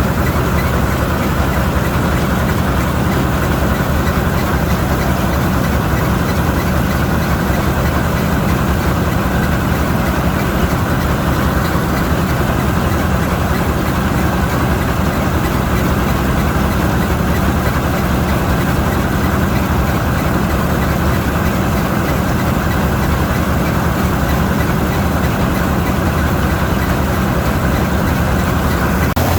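Vistula KZB-3B combine harvester running steadily while harvesting grain, a loud, even engine and machinery sound with no change in speed.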